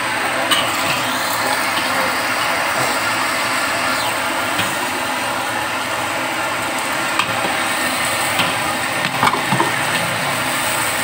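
Eggs frying in an iron wok with a steady hiss, while a metal spatula scrapes and stirs, clinking against the wok a few times, mostly in the second half.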